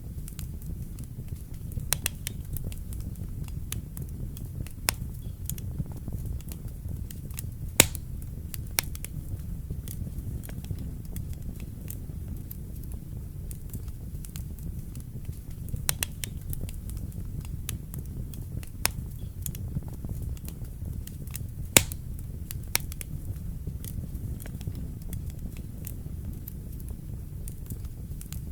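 Wood fire burning in a fireplace: a steady low rumble of flames with scattered sharp crackles and pops, two louder pops about eight and twenty-two seconds in.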